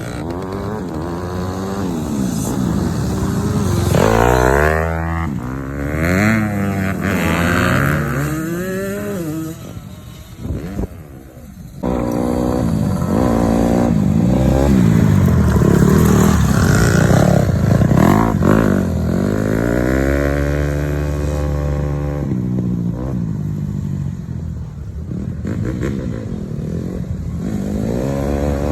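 Yamaha PW50's small two-stroke single-cylinder engine running and revving up and down with the throttle, pitch rising and falling again and again; it drops away briefly about ten seconds in, then picks up again.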